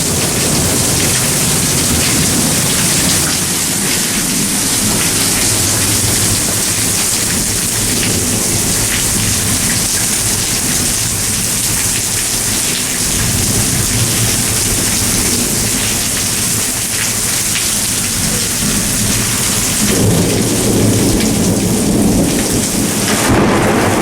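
Loud, steady rain pouring down during a thunderstorm, with low rolling thunder that swells twice in the second half.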